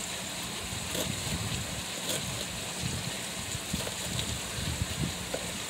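Seasoned beef strips frying in a skillet, a steady sizzle, with a few faint taps of a knife on the cutting board as a bell pepper is sliced.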